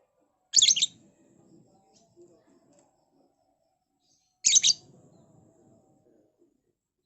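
Lovebird giving two short bursts of shrill, rapid chirps, about four seconds apart.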